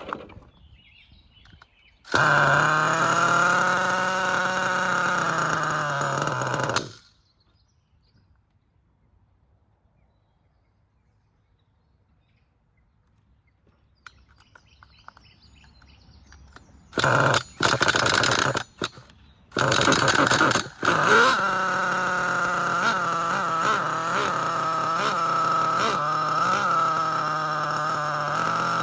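Force R36 5.9 nitro engine of an RC monster truck being started: it is spun over for about five seconds, then after a pause comes several short bursts, and at about 21 seconds it catches and keeps running steadily at idle.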